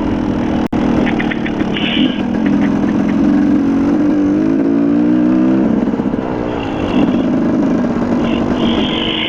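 Dirt bike engine running on a trail ride, its pitch rising and falling with the throttle around the middle.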